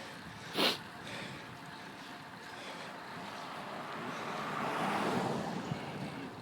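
Rushing wind and road noise on a bicycle-mounted camera while riding up a road climb, swelling to a peak about five seconds in and easing off again. A brief sharp hiss comes about half a second in.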